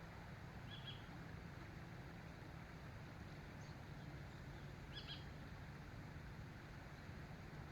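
Two short bird chirps, about a second in and again about five seconds in, over a faint steady low rumble.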